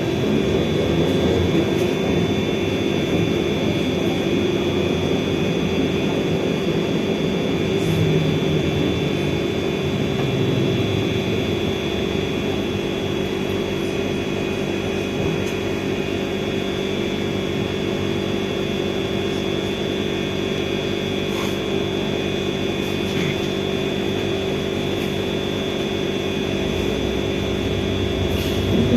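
Trolleybus interior noise while riding: a steady electrical whine from the drive over a continuous low rumble.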